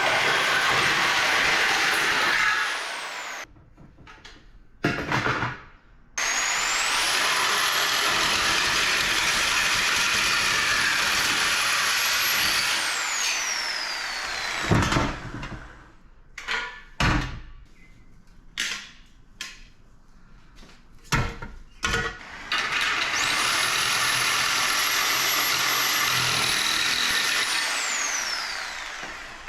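A power tool running in three long runs, each with a high whine that rises as it spins up and falls away as it spins down. In the quieter gap in the middle come a series of sharp knocks.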